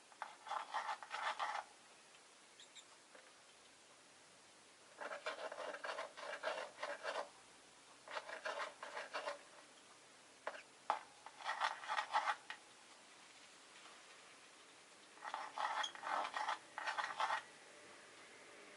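Rosy-faced lovebird chattering in five short bursts of fast, raspy pulsed calls, each lasting one to two seconds, with pauses between them.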